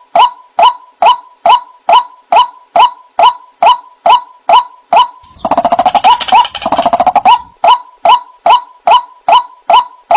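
White-breasted waterhen calling: a loud, sharp note repeated a little over twice a second. About five seconds in, it breaks into two seconds of rapid, crowded chattering, then the steady repeated notes resume.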